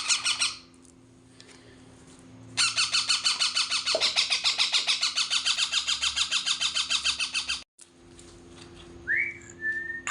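Pet parrot calling: a short call at the start, then a long run of rapid repeated calls, about eight a second, lasting some five seconds, and near the end a short whistle that rises and then holds on one note.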